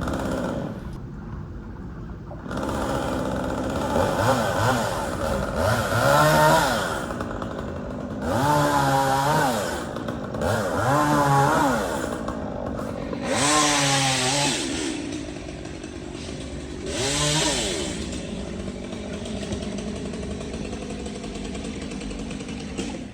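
Two-stroke chainsaw revving up and down in about five bursts as it cuts post oak limbs, dropping back to a steadier idle for the last few seconds.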